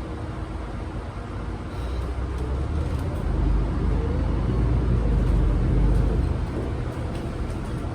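MAN Lion's City G articulated bus running, its engine and rolling noise swelling as it accelerates from about three seconds in, with a faint rising tone, then easing off near the end.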